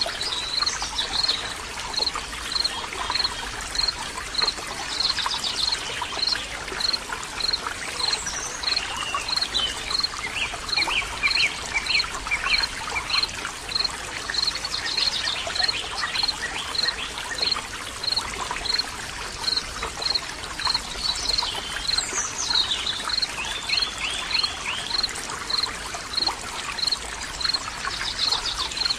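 Water running and trickling steadily, as in a small stream, with birds calling over it: one short high note repeats about one and a half times a second throughout, and other short trilled calls come in twice.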